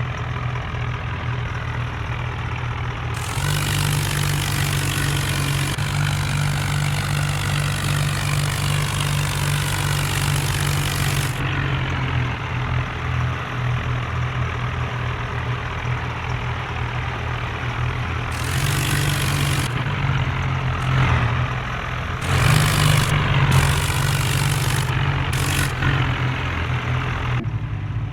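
Diesel tractor engines running steadily at low speed. The engine noise swells louder for a few seconds at a time, several times.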